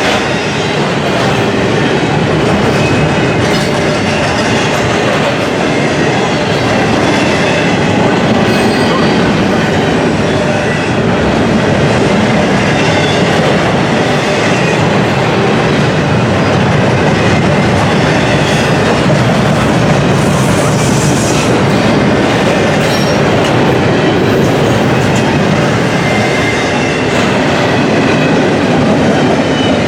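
Intermodal container freight train rolling past at close range: a loud, steady rumble of steel wheels on rail, with the clickety-clack of wheels over rail joints and faint high wheel squeals now and then.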